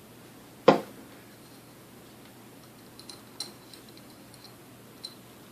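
One sharp knock about a second in, then a few light clicks and taps: parts of a Sunbeam Mixmaster Model 12 mixer's motor being handled and fitted together during reassembly.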